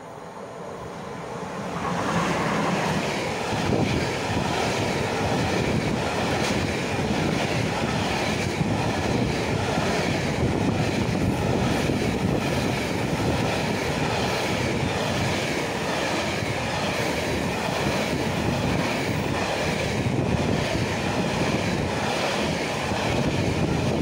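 Electric-hauled freight train passing close by. The rumble and clatter of its wheels on the rails swells over the first two seconds as the locomotive arrives, then holds steady as the wagons run past, with a steady high ringing tone above the rumble.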